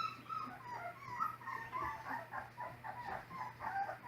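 Several three-week-old Great Pyredogue (Great Pyrenees × Dogue de Bordeaux) puppies whimpering and squeaking: a quick string of short, high, mostly falling cries, several a second, overlapping one another.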